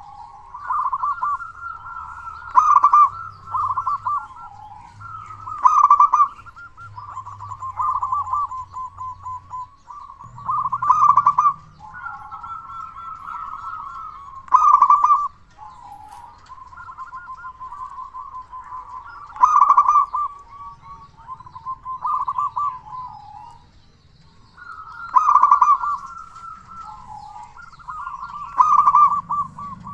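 Zebra dove (perkutut) cooing continuously, a rolling series of short notes with a louder phrase every few seconds.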